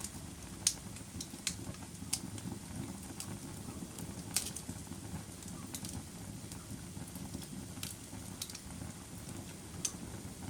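Fireplace fire crackling: a steady low rumble of burning with scattered sharp pops and snaps, the loudest about half a second in and again about four seconds in.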